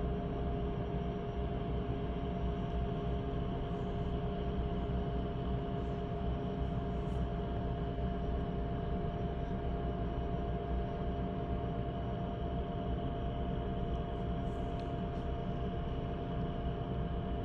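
Steady low mechanical rumble of a nearby drilling rig running, with a steady hum on top and no banging.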